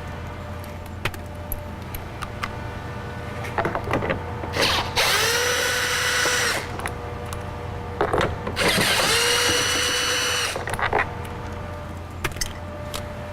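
Power tool spinning a 10mm socket to back out a door bolt, run twice for about two seconds each time: a whine that rises quickly and then holds steady. Light clicks and knocks of the tool and parts between the runs.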